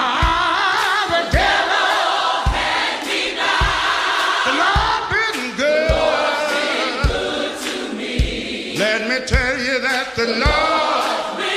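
Gospel music: a choir singing over a steady drum beat, about one low beat a second.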